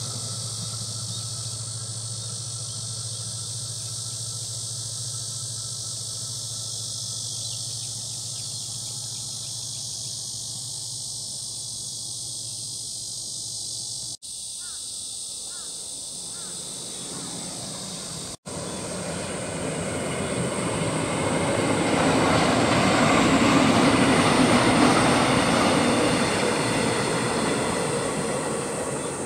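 Passenger train passing on the tracks below: the rumble of its wheels on the rails swells from about two-thirds of the way in, peaks, then fades away near the end. A steady high insect drone runs throughout, and a steady low hum fills the first half.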